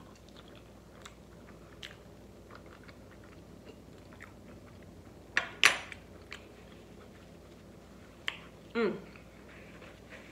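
A person chewing a mouthful of loaded taco fries, with faint wet clicks and smacks. About halfway through, a metal fork is set down on the plate with a short clatter, the loudest sound, and near the end there is a brief falling hum.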